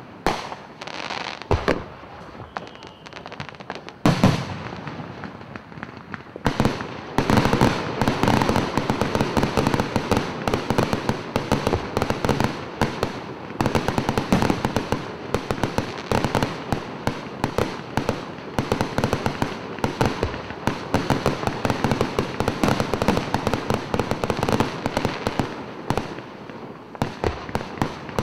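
Aerial fireworks shells bursting: a few separate bangs in the first seconds, then from about six seconds in a dense, continuous run of bangs and crackling that thins out near the end.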